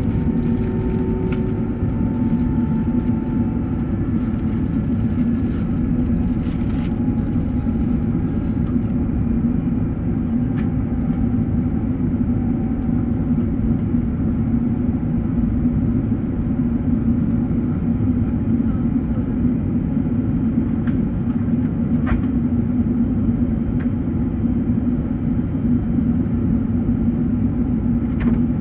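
Steady roar of an Airbus A380's engines and airflow heard inside the passenger cabin during the climb after takeoff. A few faint tones slide downward in the first few seconds.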